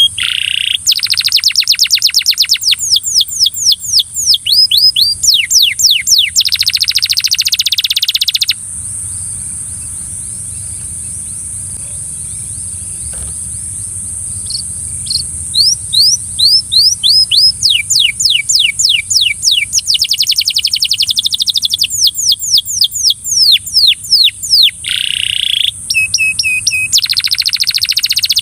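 Belgian canary singing in fast trills of quickly repeated, falling whistled notes. It breaks off for about six seconds near the middle, leaving a steady high hiss, then starts singing again.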